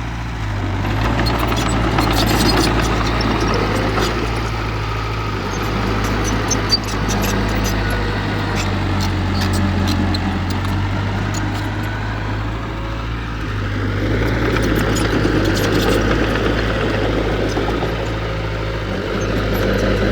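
Heavy diesel engine of earthmoving machinery running steadily, its load swelling and easing a couple of times, with scattered light clicks and one sharp knock about seven seconds in.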